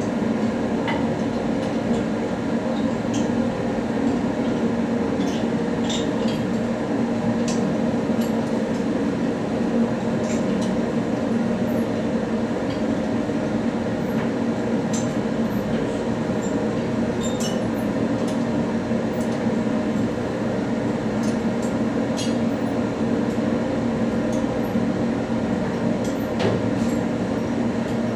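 Steady machinery hum with several fixed tones, with scattered light metallic clinks of parts and tools being handled during a turbocharger overhaul.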